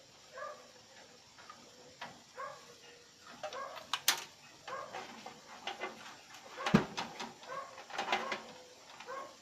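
A bird calling in short repeated notes about once a second, over clicks and knocks from hands working on parts inside a desktop computer case. The loudest is a single knock about two-thirds of the way through.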